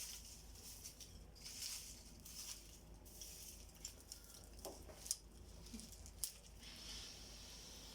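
Small fire of dry twigs and straw crackling faintly, with scattered sharp pops, two louder ones about five and six seconds in.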